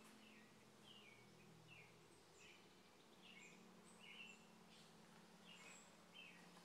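Faint bird chirps: short falling notes repeated roughly every three quarters of a second, with a few fainter high notes, over a low steady hum.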